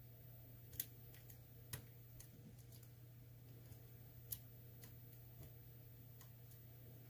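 Light, irregular metallic clicks of a lock pick working the spool pins of an ASSA Twin Combi pin-tumbler cylinder, with three sharper clicks among fainter ticks, over a faint low hum.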